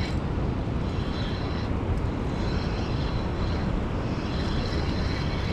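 Steady roar of a big waterfall, rushing water that holds at an even level throughout.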